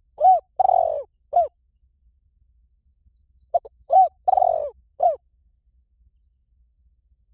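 Spotted dove cooing: two phrases about three and a half seconds apart, each of four low arched coos, the third one longer and rougher.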